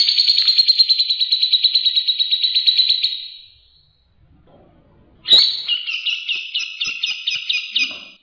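Songbird singing two long, rapid trills of repeated high notes, the fast 'tembakan' phrases of a bird-training song recording. The first trill fades out about three and a half seconds in; the second starts sharply about five seconds in.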